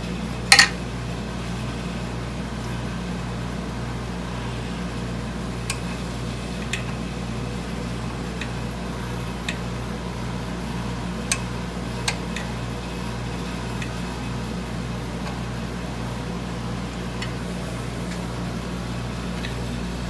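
Steady low hum with a slow, even pulse, with a few sharp, light metallic clicks scattered through it as a hex key works on the scroll saw's lower blade holder.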